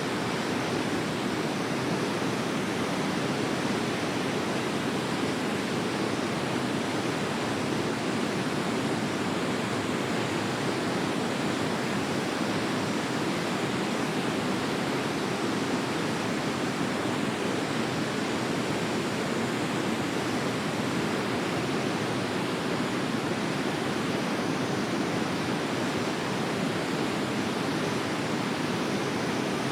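Forest river flowing: a steady, unchanging rush of water.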